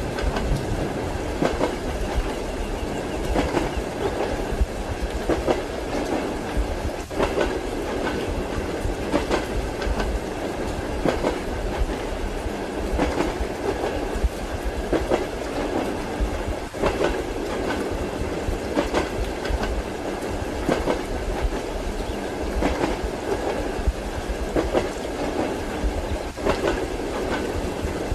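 Passenger train wheels clattering over rail joints, heard from inside the carriage: a steady rolling rumble with regular knocks about once a second.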